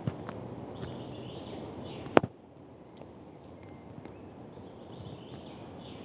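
Spring forest ambience: a songbird sings two short warbling phrases over a steady low background rumble, with a single sharp click about two seconds in.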